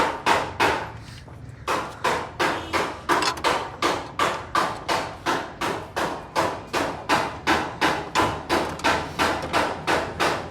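Repeated hammer blows in a workshop, about three a second, with a brief pause about a second in, over a steady low hum.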